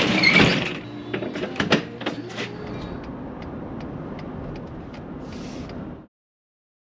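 A rush of noise, then scattered clicks and knocks over a steady hiss, cutting off to silence about six seconds in.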